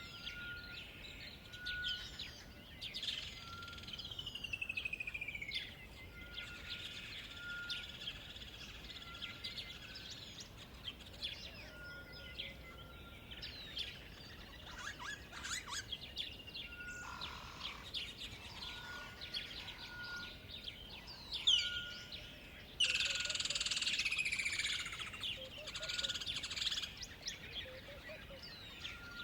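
Several songbirds singing together, with many short chirps and downward-sliding whistles, over a faint steady background hiss. A short, level note repeats again and again throughout, and a burst of louder, denser song comes about three-quarters of the way through.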